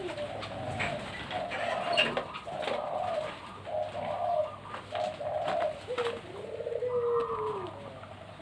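Zebra doves (perkutut) cooing: a run of short, evenly repeated coos, then a longer coo that slides down in pitch about six seconds in.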